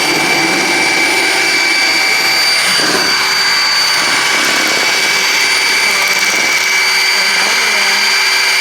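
A household electric motor running steadily with a loud whir and a constant high whine, with no change in speed.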